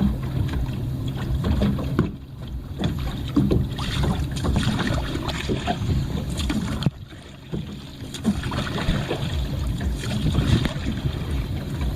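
Water sloshing and splashing around a kayak on open water, with uneven small splashes and some wind on the microphone.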